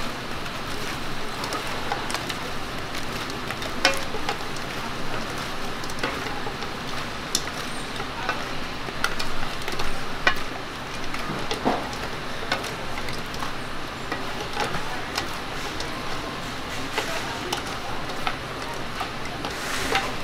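Dakgangjeong (Korean fried chicken) being cooked: a steady sizzling hiss with scattered clinks and knocks of metal utensils throughout.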